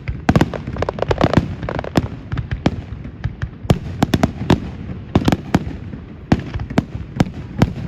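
Aerial fireworks going off in quick succession: many sharp, irregular bangs, several a second, over a steady crackle.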